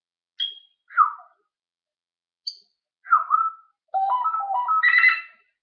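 Pet parrot whistling and chirping: a few short high chirps and single whistled notes, then near the end a quick run of whistled notes stepping upward in pitch.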